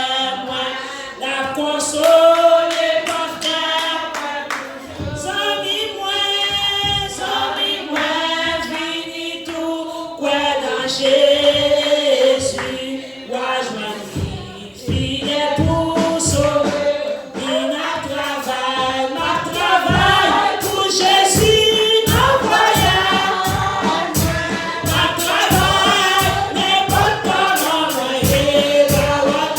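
Church congregation singing a hymn together, unaccompanied at first, with a steady beat joining in about halfway through.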